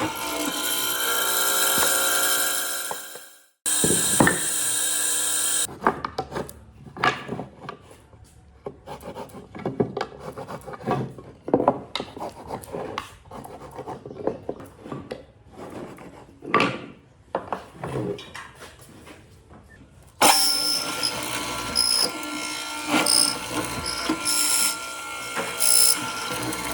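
Woodworking tools on wood. A power tool runs steadily at first, then gives way to about fourteen seconds of irregular scraping and knocking from hand work on the wood. Near the end a power tool runs steadily again.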